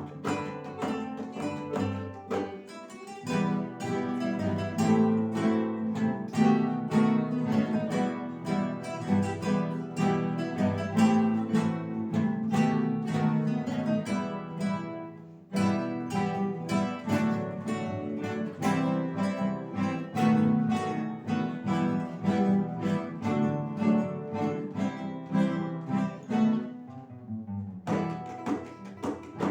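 Ensemble of acoustic guitars playing a rhythmic, dance-like piece with plucked melody over strummed chords. The music drops away briefly about halfway through and comes back in at once.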